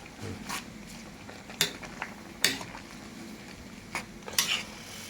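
A utensil scraping and clinking against a cooking pot of curry as it is stirred, in about five short, sharp strokes spread over the few seconds.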